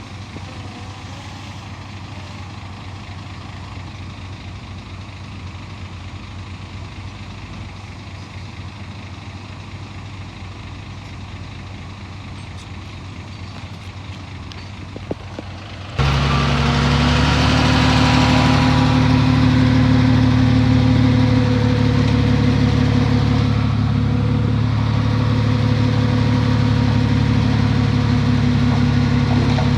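Heavy diesel engine running steadily, low and fairly quiet at first. About halfway through it abruptly becomes much louder and closer, a steady engine drone that stays level to the end.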